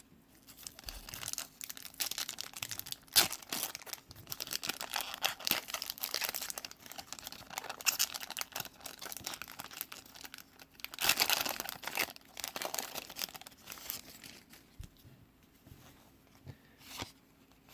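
Wax wrapper of a 1991 Score Football card pack being torn open and crinkled by hand, in irregular crackling bursts that are loudest about eleven seconds in. The wrapper is stubborn to open. The rustling turns quieter and sparser near the end.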